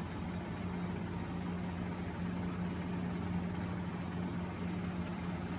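Steady low machine hum with no change or breaks.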